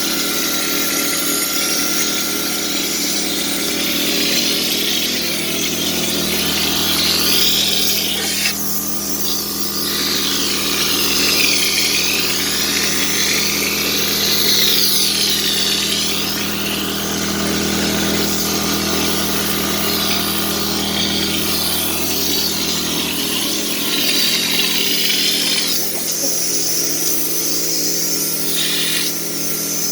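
A power tool running steadily, its hum held throughout, with a hiss over it that rises and falls in waves.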